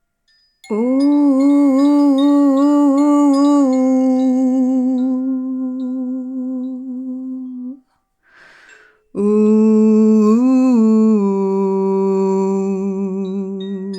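A woman humming long held vocal tones for voice toning. The first note wavers in pitch for a few seconds and then holds steady; after a short breath, a second, slightly lower note starts, lifts briefly, and settles into a steady hum.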